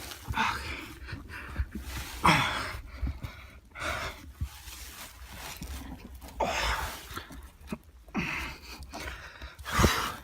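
A man breathing hard and gasping, about seven loud, hissy breaths, while he squeezes backwards out of a cramped hole dug into the ground.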